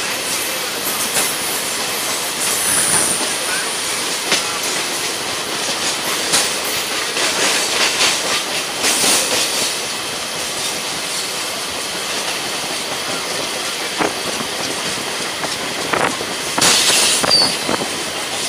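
Mumbai suburban local train running on the rails, heard through its open doorway, with a passing train of blue passenger coaches on the next track. The wheels keep up a steady rumble and clack over rail joints, with a brief high squeal about three seconds in and a louder burst of clatter near the end.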